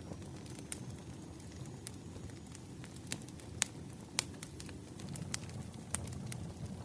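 Firewood burning: a steady low rumble of flames with irregular sharp crackles and pops, a few louder pops in the middle.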